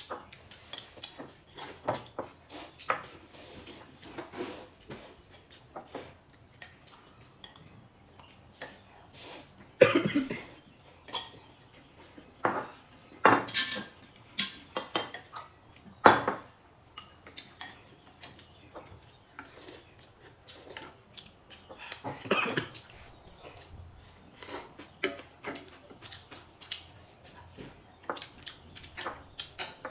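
Cutlery and dishes clinking and knocking irregularly as food is eaten, with a few louder knocks about ten, thirteen, sixteen and twenty-two seconds in.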